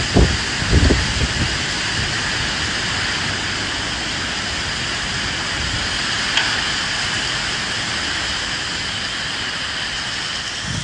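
Steady rain hissing, with low gusts of wind rumbling over it in the first second or so.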